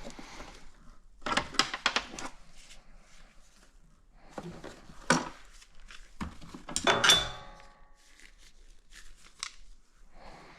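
Clinks and clatter of metal tools and parts being handled during a motorcycle teardown, in a few short clusters, the loudest a metallic clank about seven seconds in that rings briefly.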